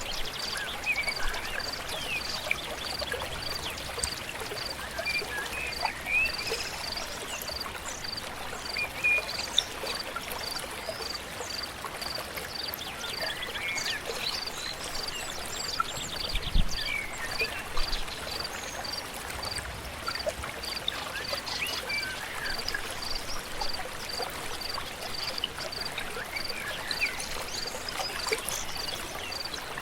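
Flowing stream, a steady rush of water, with many birds singing. A high pip repeats evenly about twice a second throughout.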